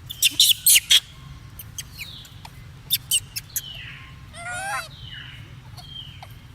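Monkey squeaking and chirping. Four sharp, loud squeaks in the first second, more short squeaks around the middle, several high calls that fall in pitch, and one wavering call just after the middle.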